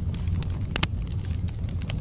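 Wood fire burning in a fireplace: a steady low rumble of flames with irregular sharp crackles and pops from the burning logs, the loudest a little under a second in.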